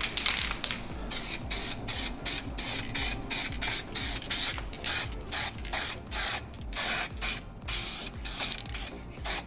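Aerosol spray can of Siana craquelure enamel spraying a base coat in quick short bursts, a sharp hiss two or three times a second after a longer first spray.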